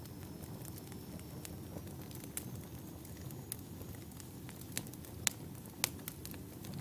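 Wood fire burning in a fireplace: a low steady rumble of flames with irregular sharp crackles and pops from the logs, two louder pops near the end.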